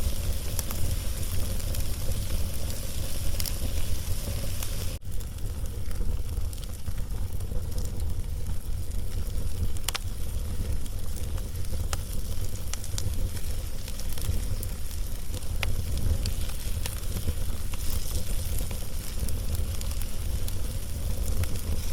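Wood log fire burning, with scattered sharp crackles and pops over a steady low rumble. The sound drops out briefly about five seconds in.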